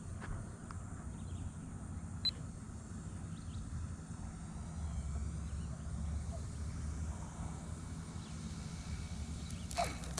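Faint whine of an electric-powered RC Cessna 182 model plane's motor on its landing approach, gliding slowly in pitch, over steady wind rumble on the microphone, with a sharp click about two seconds in.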